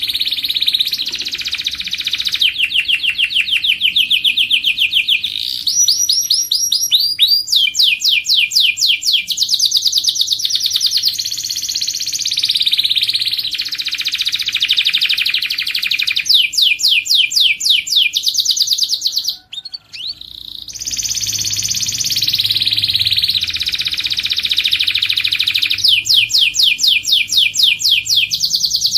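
Domestic canary singing a long song of trills and rolls. Each phrase is a fast run of one repeated note before it switches to the next, with a short break about two-thirds of the way through.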